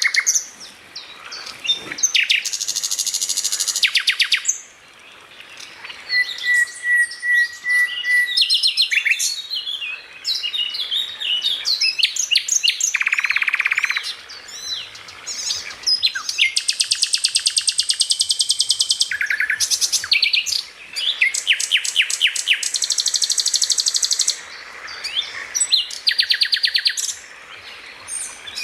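Greater green leafbird (cucak ijo) singing a loud, varied stream of phrases: fast rapid-fire trills, chattering notes and a few held whistles.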